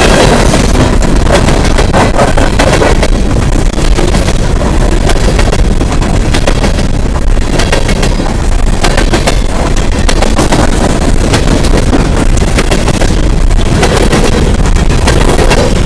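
Empty coal train rolling past, its steel wheels clacking and the empty hopper cars rattling and banging in a steady loud rumble.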